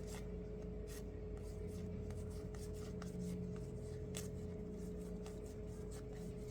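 Basketball trading cards being slid and flipped through the hands, with faint rubbing and light scattered clicks over a steady low hum.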